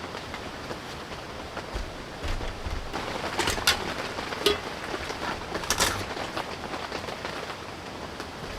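Steady rain falling, its drops making many small ticks, with a few sharper clicks about three and a half and six seconds in.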